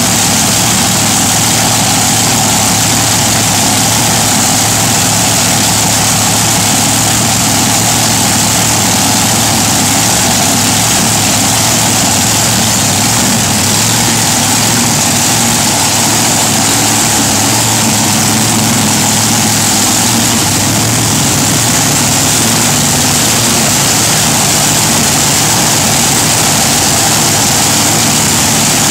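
Monster truck engine idling steadily.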